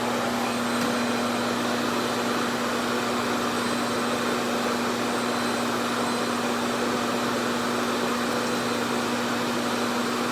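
RevAir reverse-air hair dryer running steadily, its suction drawing air and hair into the wand, with an even rush of air over a constant hum.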